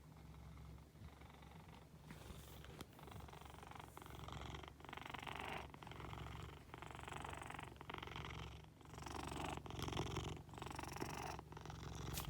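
Flame point Siamese cat purring, a steady low rumble that swells and eases with each breath about once a second.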